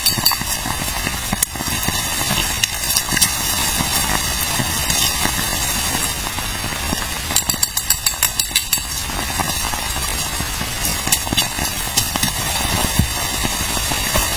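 Steady rushing noise with many sharp crackles and clicks scattered through it, thickest in clusters in the second half.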